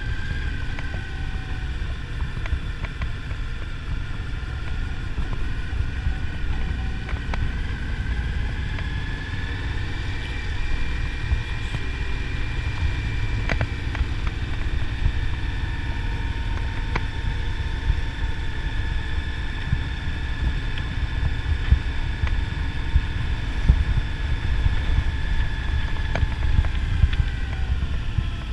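Motorcycle riding at a steady cruising speed, its engine note holding with slow small rises and falls in pitch, under heavy wind rumble on the microphone.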